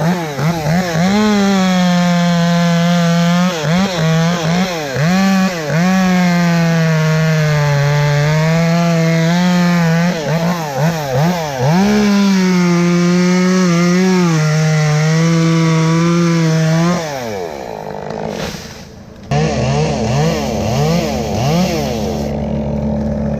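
Chainsaw running near full throttle, its pitch sagging and recovering again and again, as when it cuts into wood. It cuts off about seventeen seconds in, and a deeper, steadier engine is heard for the last few seconds.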